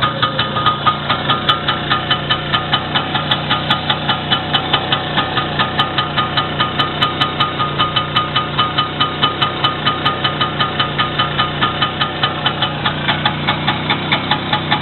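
Engine idling slowly with an even beat of about four to five pulses a second, on its first run after a rebuild with a new connecting-rod small-end bushing and a whole new piston group.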